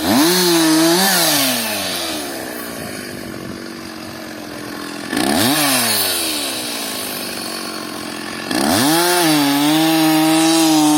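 Petrol two-stroke chainsaw revving up and dropping back to idle, blipped again, then held at steady high revs from about two-thirds of the way in as it cuts into the felled trunk to buck it into logs.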